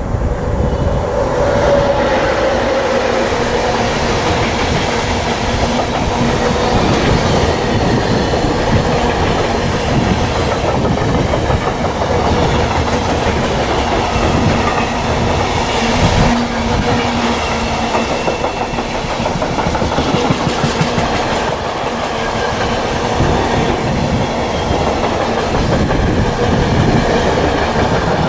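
Intermodal container freight train, headed by a BR186 electric locomotive, passing close at speed: a loud, steady rumble of wagon wheels with repeated knocks as they run over the rail joints.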